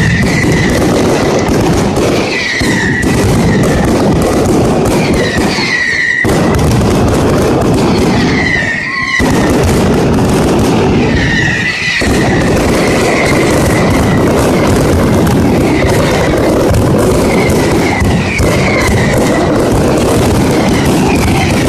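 Mascletà: a dense, unbroken barrage of firecracker bangs, with short whistling rockets rising and falling every few seconds and a few brief lulls.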